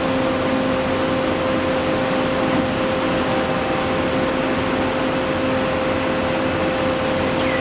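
A machine running steadily: a constant hum with a held tone over an even hiss, unchanging in level.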